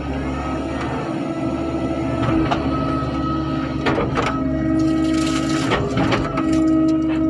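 Excavator working: a low engine rumble with a steady whine that fades out and returns a few times, broken by several sharp metallic clanks.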